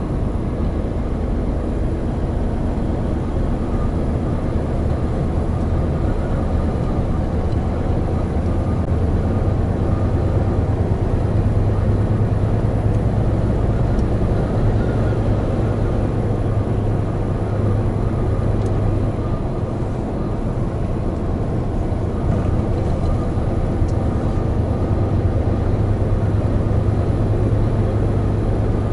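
Hino Profia heavy truck's diesel engine and road noise heard from inside the cab while driving, a steady low drone that dips briefly about twenty seconds in.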